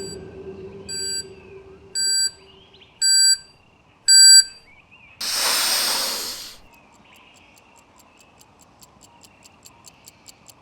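Countdown timer cues: five short electronic beeps about a second apart, each louder than the last, then a whoosh lasting about a second and a half, then rapid clock-like ticking, about four ticks a second, over faint ambient music.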